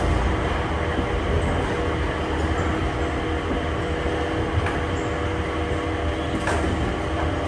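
Airport people-mover train running, heard from inside the car: a steady low rumble, joined about a second and a half in by a steady motor hum.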